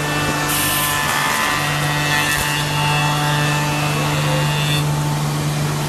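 Automatic wood copy shaper running with a steady hum. From about half a second in until shortly before the end, a louder high hiss of the spindle cutters milling a wooden part rises over it.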